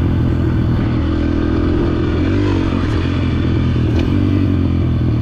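Yamaha dirt bike engine running steadily, its pitch dipping and rising briefly about halfway through.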